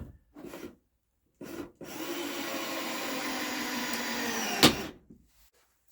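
Electric power saw running for about three seconds as it cuts a wooden board, ending with a sharp loud crack just before it stops. Two short handling sounds come first.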